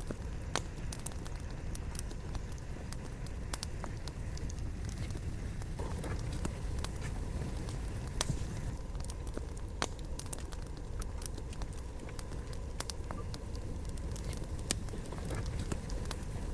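Wood fire burning, with a steady low rumble of the flames and irregular sharp crackles and pops from the logs.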